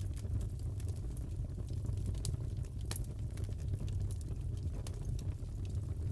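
Crackling fireplace: a steady low rumble of burning with scattered sharp pops and crackles, a few of them louder, such as one about three seconds in.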